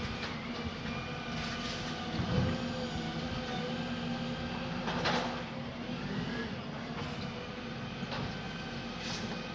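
Garbage truck running, with a steady engine hum, whining tones that drift up and down in pitch, and a few metallic clanks, about three seconds apart.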